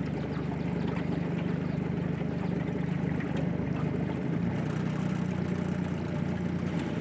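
Jet boat engine running steadily at low speed as the boat eases in. Its low hum shifts slightly about four seconds in.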